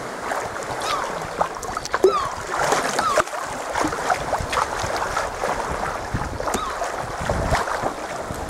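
Sea kayak on the move: water splashing and slapping against the hull and the paddle blades, with many short sharp clicks and plinks of water.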